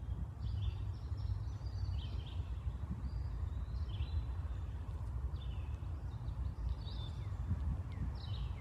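Wild birds calling outdoors: short high chirps and call notes come every second or so, over a steady low rumble that is louder than the birds.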